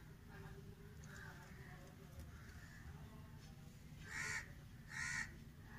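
A bird cawing twice, about a second apart near the end, each call short and harsh, with fainter calls before them.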